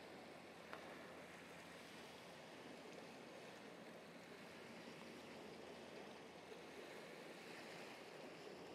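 Faint, even hiss of light rain falling, with one small tick about a second in.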